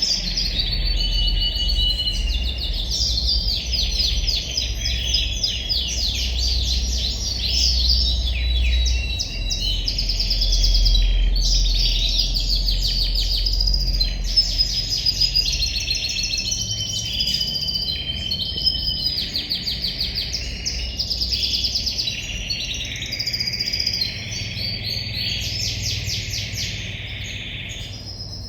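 Frilled hybrid canary singing a long unbroken song of rapid trills and rolls broken by short held whistled notes. A low rumble runs underneath, stronger in the first half.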